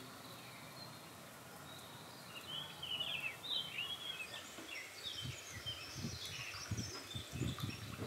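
Small birds chirping and twittering in quick rising and falling phrases, starting about two seconds in. In the second half there is a series of soft low thuds.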